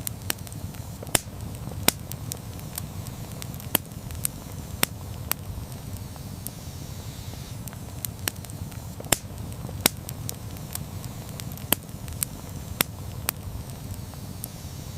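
Wood campfire burning: a steady low rumble of flames with irregular sharp crackles and pops, several standing out louder than the rest.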